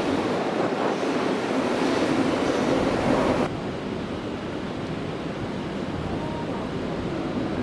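Electric train running past, a steady rushing rumble that drops off sharply about three and a half seconds in, leaving a quieter steady background hum.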